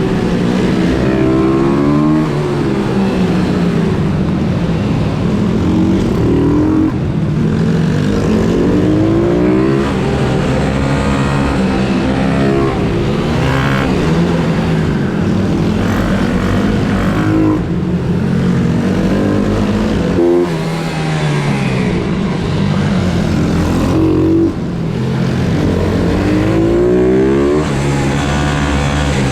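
Pit bike engines revving up and down over and over as they are ridden hard through gear changes, with more than one engine heard at once at times.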